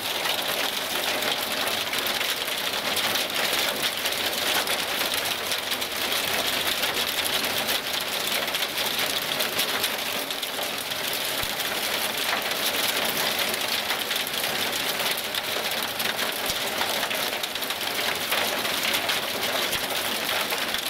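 Heavy downpour of rain and hail striking wet pavement: a dense, steady hiss made of countless small impacts.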